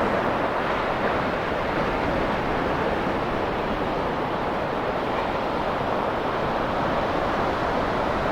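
Ocean surf breaking on a beach: a steady rush of wave noise with no single crash standing out.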